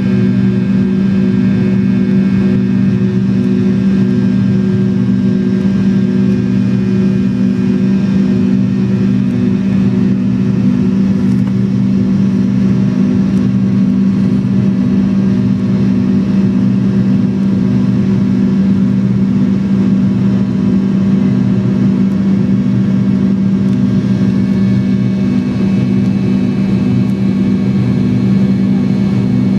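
Steady drone inside the rear cabin of a McDonnell Douglas MD-83 airliner on the ground before takeoff: a strong low hum with fainter steady whines above it.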